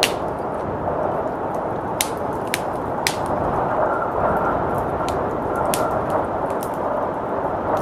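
Fireplace crackling, with sharp pops scattered every second or so, over a steady rushing blizzard wind. A faint high whistle comes in about halfway through.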